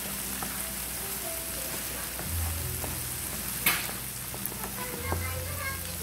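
Diced onion, garlic and tomato sizzling in hot oil in a frying pan as they are stirred with a wooden spatula, with one sharp click past the middle as the spatula knocks the pan. A low hum comes and goes underneath.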